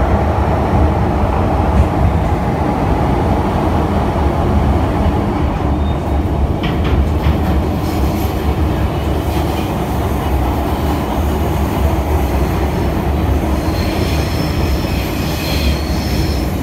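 MTR Disneyland Resort Line M-Train heard from inside the carriage while running between stations: a steady, loud rumble of wheels on rail and running gear. A faint high-pitched wheel squeal comes in near the end.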